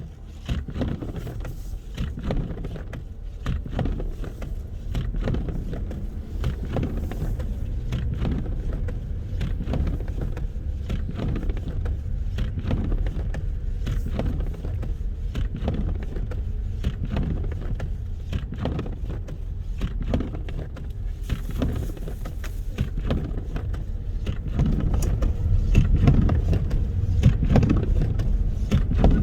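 Wind buffeting the microphone in a snowstorm: a gusty low rumble with crackles, growing stronger near the end.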